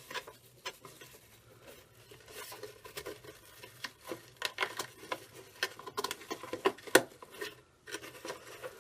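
Irregular light rustling and ticking of hands working a silver tinsel pipe cleaner onto a juice-container bird feeder, with a sharper click about seven seconds in.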